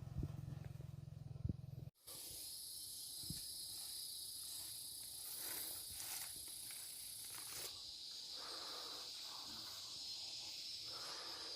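An engine hum for the first two seconds, cut off abruptly, then tropical forest insects droning steadily at a high pitch, with a second, even higher buzz that stops about two-thirds of the way through and scattered chirps.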